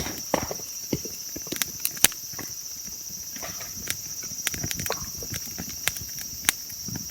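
Raindrops dripping onto taut tent or tarp fabric: irregular hollow taps, several a second, some louder than others, over a steady high-pitched trill.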